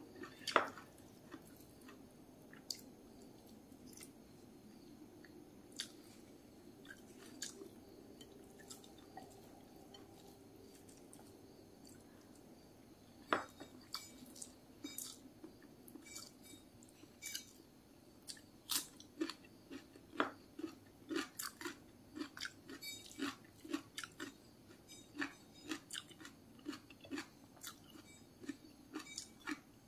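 Close chewing and mouth sounds of someone eating a meal of tofu and raw vegetables by hand. Only a few soft clicks at first, then from about halfway in, frequent short crunchy clicks of chewing, several a second.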